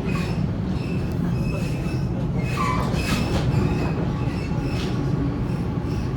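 Sydney Trains Waratah A set double-deck electric train running along the line, heard from on board. It makes a steady low rumble, with short high wheel squeals throughout, a falling squeal about two and a half seconds in, and a few clicks from the track.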